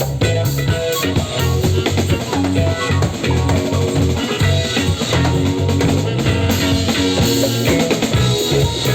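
Live instrumental psychedelic trance-jam band playing: a steady drum-kit beat with percussion over a moving electric bass line, with guitar and keyboards.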